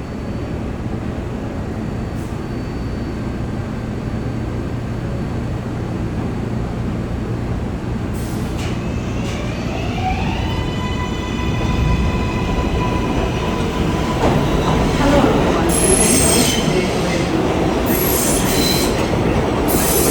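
NYC Subway R62A train running on the (6) line, with a motor whine rising in pitch about halfway through as it picks up speed, then shrill, high-pitched wheel squeal in the last few seconds.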